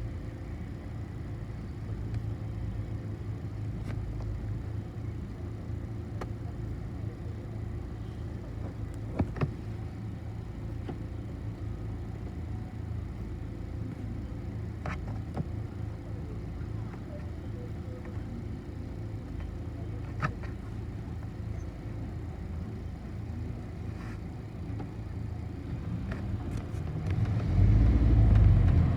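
City bus heard from inside the passenger cabin while riding: a steady low engine and road rumble with a few sharp knocks and rattles. The low rumble grows much louder near the end.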